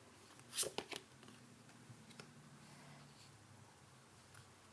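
Tarot cards being handled and laid down: a short rustle and slap a little over half a second in, then a faint tick, over quiet room tone.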